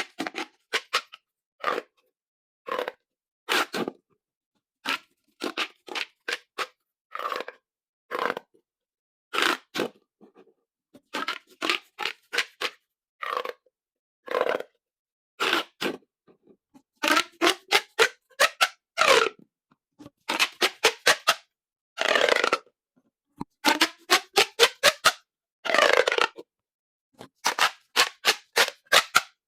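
Corrugated plastic pop tubes being pulled out and pushed together, in short bursts of rapid ratcheting clicks with silent gaps between. Some longer runs of clicks slide in pitch, around the middle and again near the end.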